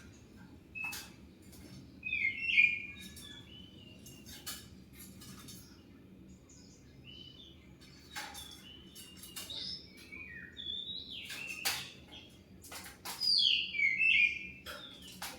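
Oriental magpie-robin (kacer) singing: varied whistled phrases that glide in pitch, mixed with sharp clicking notes, loudest about two and a half seconds in and again near the end.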